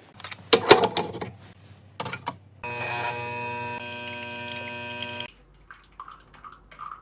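Handling clicks and knocks, then a small electric appliance runs with a steady buzzing hum for about two and a half seconds and cuts off suddenly.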